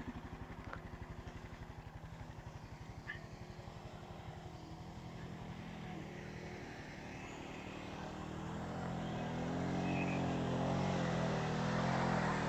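ATV engines: one idling steadily, and from about eight seconds in a second engine grows louder with a wavering pitch as it is throttled.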